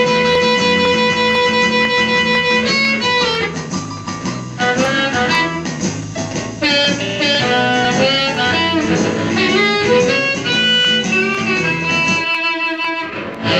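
Amplified blues harmonica played through an Astatic 200-S bullet microphone with a 99S556 element, over a blues backing track with guitar. It holds one long note for about two and a half seconds, then plays shorter bending phrases.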